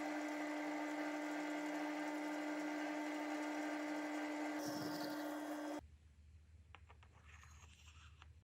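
A small electric motor running steadily at one pitch, its sound shifting slightly shortly before it stops abruptly about six seconds in; faint light clicks and rattles follow.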